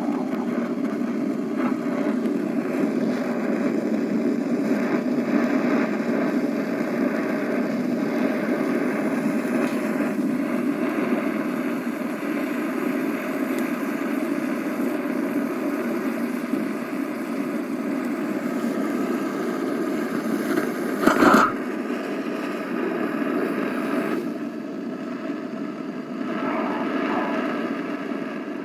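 Tetraamminecopper(II) nitrate burning with a steady rushing noise, broken by one sharp crack about 21 seconds in.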